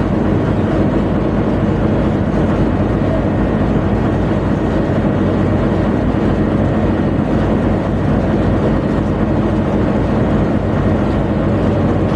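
Tugboat engine running steadily on board, a loud constant low drone with an even hum.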